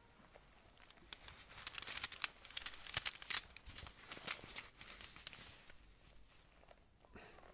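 Close-miked crinkling and clicking handling sounds: a dense run of short, sharp crackles and taps that starts about a second in and dies away near the end.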